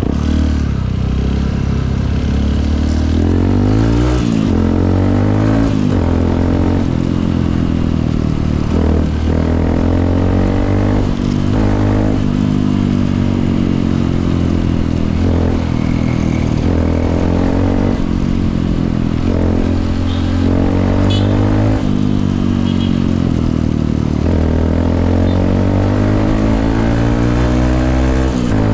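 Honda CRF150L's single-cylinder four-stroke engine running while riding, its pitch rising and falling again and again as it accelerates, shifts gears and eases off.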